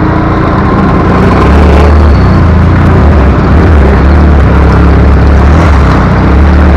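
Motorcycle engine running while the bike is ridden, with heavy low wind rumble on the microphone that grows louder about a second and a half in.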